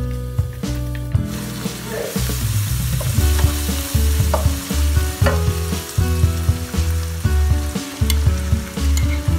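Onions and spices frying in a wok, sizzling, while a wooden spatula stirs and scrapes through them; near the end a spoon clinks against a bowl as meat is scraped into the pan.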